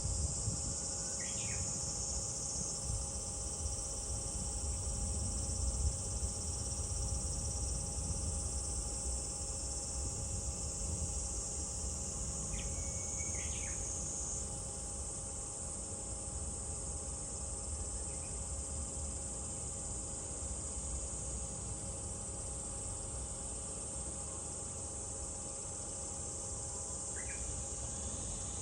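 Steady, high-pitched drone of a summer cicada chorus, with a few short bird chirps about a second in, midway, and near the end, over a low rumble.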